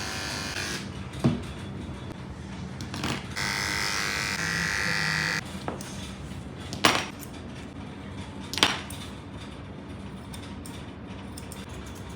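Electric pet clippers buzzing in two stretches while shaving a cat's coat for a lion cut, with three sharp knocks in between.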